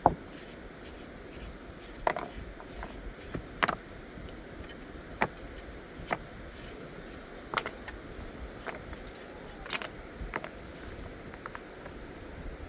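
Scattered light clicks and clinks of small hard objects being handled, about a dozen at irregular intervals over a steady low background noise, the sharpest right at the start.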